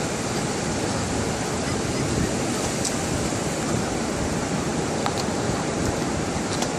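Ocean surf washing steadily on the beach, with wind on the microphone adding to the even rush of noise.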